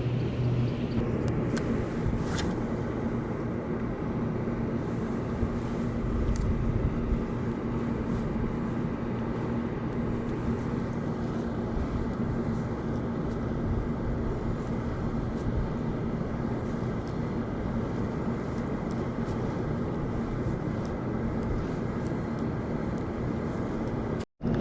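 A steady motor drone with a constant hum in it, unchanging throughout, broken by a brief dropout just before the end.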